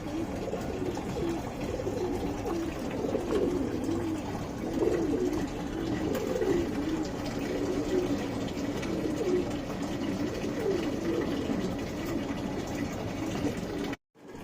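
Pigeons cooing repeatedly, one low wavering coo after another. The sound cuts off suddenly near the end.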